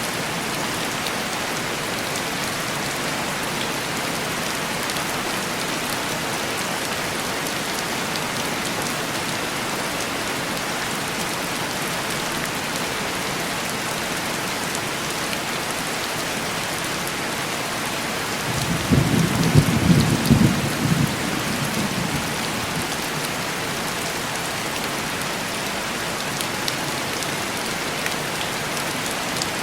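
Steady heavy rain on a window, with a rumble of thunder rolling in about two-thirds of the way through and fading after a couple of seconds.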